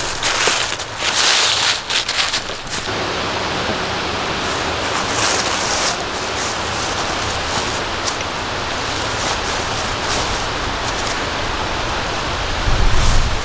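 Steady rushing hiss, with a few brief rustles and knocks in the first couple of seconds and louder knocking starting near the end.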